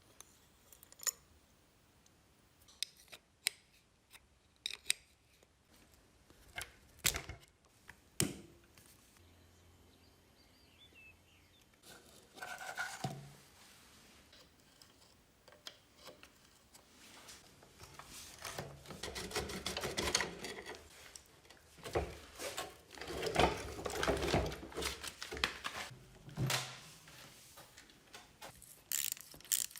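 Hand work on metal motorcycle parts: scattered sharp clicks and knocks, then, past the middle, stretches of scraping and rubbing with more knocks.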